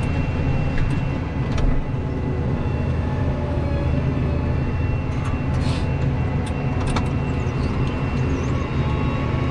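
Tractor engine running steadily, heard from inside the closed cab, with a few light clicks and knocks.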